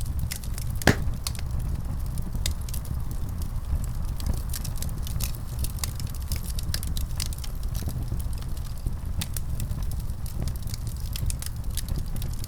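Wood fire crackling in a fireplace: frequent small snaps and clicks over a steady low rumble, with one louder pop about a second in.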